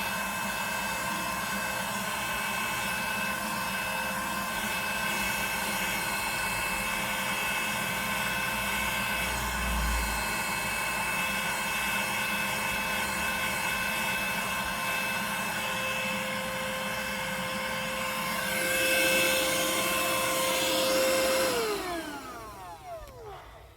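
Vacuum cleaner running steadily with a high motor whine, getting louder for a few seconds near the end. It is then switched off, and the whine falls in pitch as the motor spins down.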